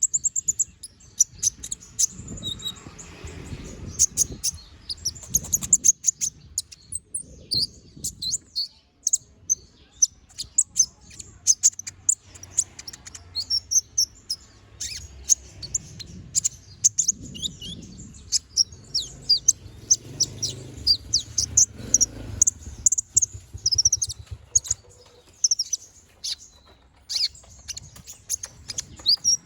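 Kolibri ninja (konin), a small sunbird, singing energetically: a fast, continuous run of sharp, high-pitched chirps and trills, broken by a brief pause about nine seconds in and another near the end, over a faint low rumble.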